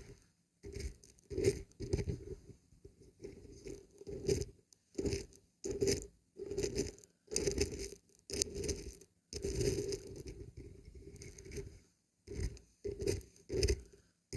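Dried beans and barberries rattling as they are shaken, in a run of short bursts roughly one every half second to a second, separated by brief gaps.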